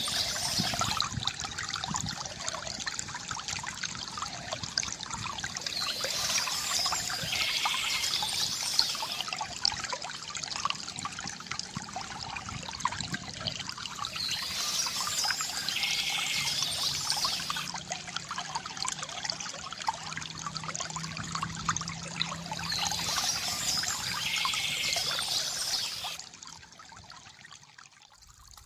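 Water trickling and pouring steadily from a bamboo fountain spout. It turns much quieter near the end.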